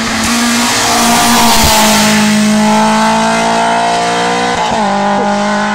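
Rally car engine held at high revs, a loud steady note that dips slightly in pitch about a second in and breaks off briefly about four and a half seconds in before running on.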